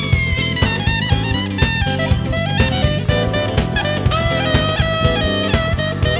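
Jazz band music: a saxophone melody over drum kit and guitar with a steady beat.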